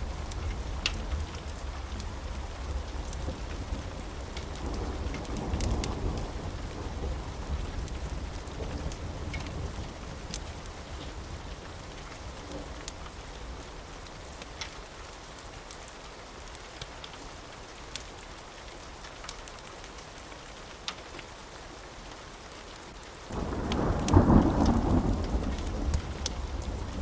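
Steady rain with rolling thunder. A low rumble swells about five seconds in and fades, the rain goes on more quietly with scattered sharp ticks, and a sudden loud thunderclap breaks in near the end.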